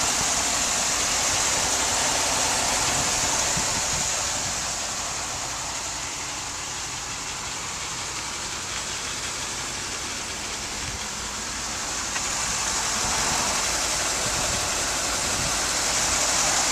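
The 8.1-litre gasoline V8 of a 2002 GMC Blue Bird Handybus school bus idling steadily and smoothly, with a steady high hiss over it. It grows quieter for several seconds in the middle and louder again near the end.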